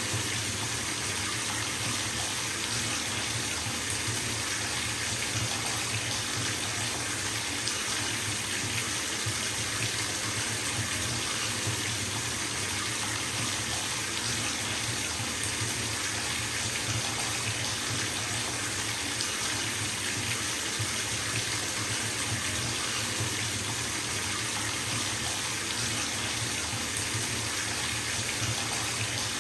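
Water running steadily from a bathtub tap into a filling tub: a constant, even splashing rush with no change.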